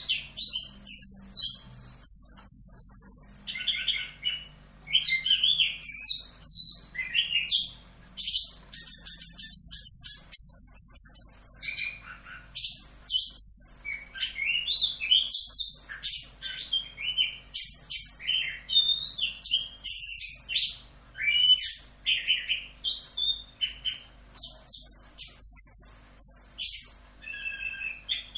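Chestnut-capped thrush (anis kembang) singing a long, continuous song of rapid, varied high chirps and whistled phrases, with only brief pauses.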